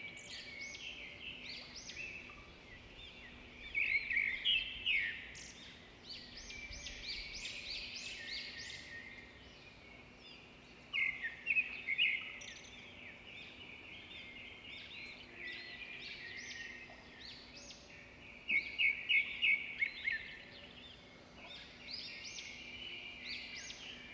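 Small songbird singing: bursts of quick chirps and trills that come back every several seconds, with quieter twittering between them.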